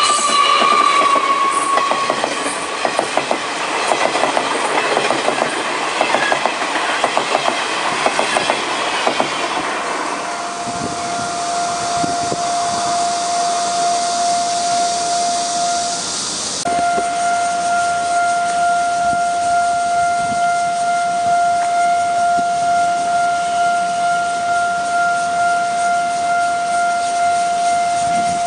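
A Taiwan Railway Chu-Kuang Express passing a level crossing, its wheels clattering rhythmically over the rail joints for about ten seconds. After the train has gone, the crossing's electronic warning tone carries on steadily.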